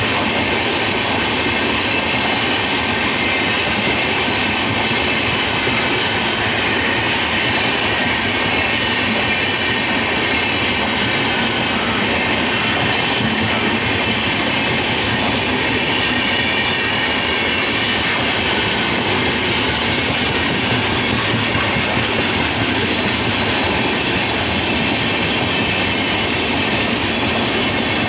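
Coaches of an Indian Railways express train passing through a station at speed without stopping. Their wheels make a loud, steady running noise on the rails.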